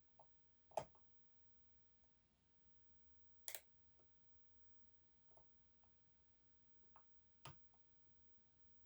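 Faint, scattered clicks of a lock pick and tensioner working the unsprung sliders inside an EVVA 3KS high-security lock. About six short clicks come a second or more apart, the sharpest about a second in and another about three and a half seconds in.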